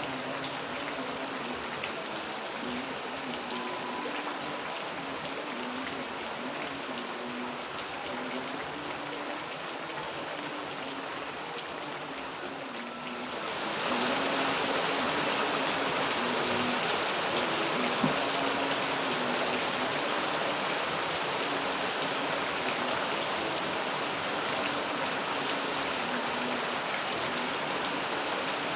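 Steady rain falling, which grows suddenly heavier and louder about halfway through, with a single sharp tap a few seconds later.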